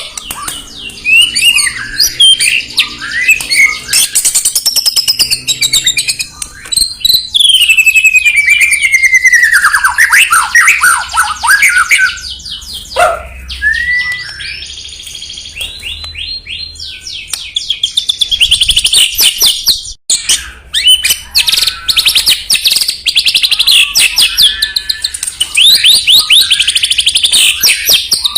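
White-rumped shama (murai batu) singing a loud, varied song of long sliding whistles, one falling steeply around the middle, broken up by fast runs of rapidly repeated notes.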